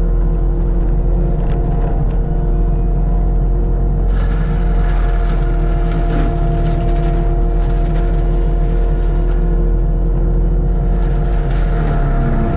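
Land-clearing machine's engine running steadily at constant speed, a loud continuous hum with an unchanging pitch.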